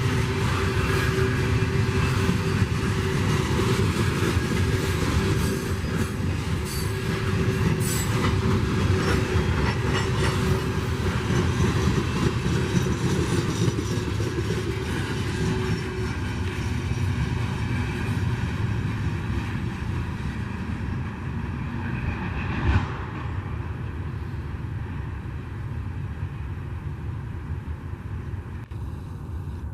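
Freight train rolling past, its steel wheels clattering over the rails, with one sharp click a little over twenty seconds in. The sound slowly fades over the last ten seconds.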